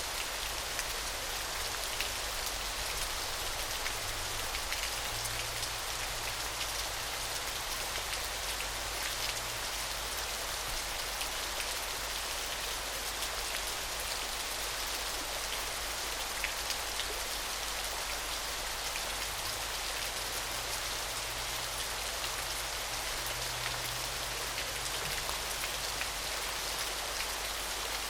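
Small waterfall splashing steadily: an even, bright hiss of falling water with a fine spatter of drips.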